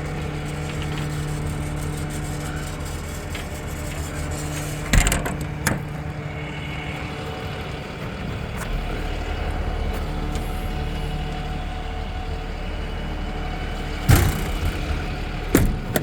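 An engine running steadily at idle, with a few sharp knocks or bangs: two about five seconds in and two more near the end.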